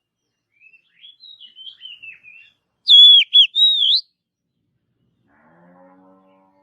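Oriental magpie-robin singing: soft twittering, then a loud, clear whistled phrase of swooping notes about three seconds in. Near the end, a faint low drawn-out call.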